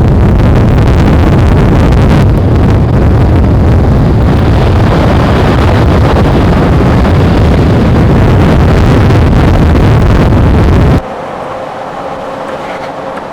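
Strong wind blasting the microphone beside a tornado: a loud, steady, deep rumbling rush. It drops suddenly about eleven seconds in to a much quieter rumble with a faint hum.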